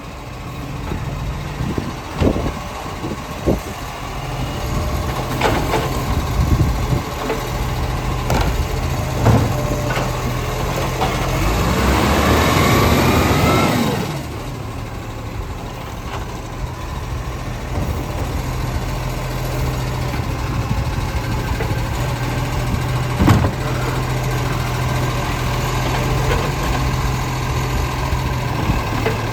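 Garbage truck engine running steadily, with scattered knocks and clunks. About halfway through, a louder rising whine builds for a few seconds and cuts off suddenly, then the steady running continues.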